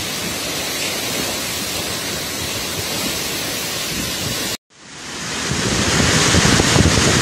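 Storm-force wind blowing hard, a dense rushing noise buffeting the phone's microphone. It cuts out abruptly about four and a half seconds in, then comes back and builds louder.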